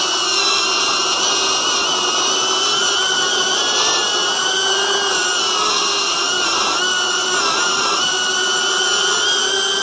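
Cinewhoop FPV drone's ducted propellers and small electric motors whining steadily in flight, the pitch wavering slightly up and down.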